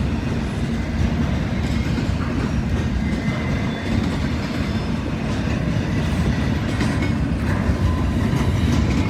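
Freight train passing, its cars rolling by with a steady rumble of wheels on the rails.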